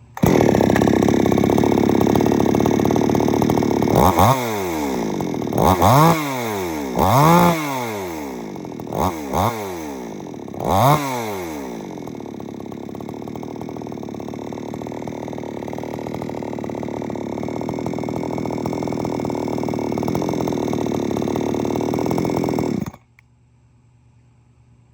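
XtremepowerUS 6200 62cc two-stroke chainsaw running: held at high revs, then blipped up and down about six times, settling to a steady idle that cuts off suddenly near the end.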